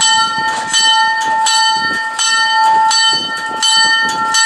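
Locomotive bell ringing at a steady pace, about three strokes every two seconds, each stroke ringing on into the next.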